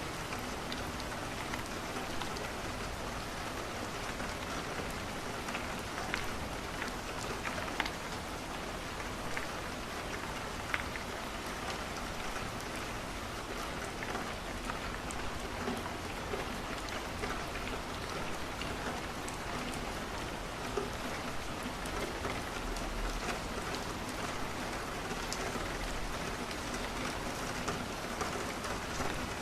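Steady rain falling on a window, with scattered sharp ticks and pops throughout.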